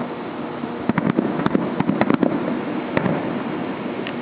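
Fireworks going off: a quick string of sharp bangs and pops for about a second, starting about a second in, then another bang near three seconds, over a steady rumble of background noise.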